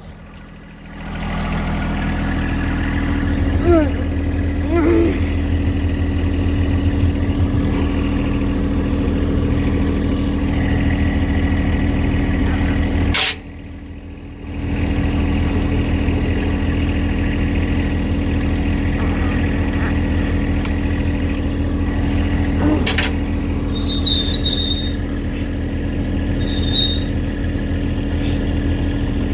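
A steady machine hum, like a motor running, with two short high-pitched beeps near the end.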